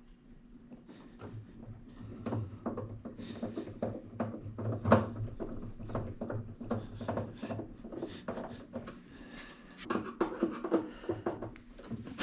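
Irregular clicks, taps and light knocks, several a second, from hands working on plastic washing-machine parts, with a faint steady hum underneath.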